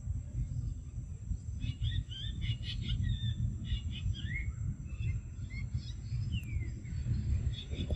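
Small birds chirping and twittering in a quick run of short calls and brief sliding notes, starting about a second and a half in and fading near the end, over a steady low rumble.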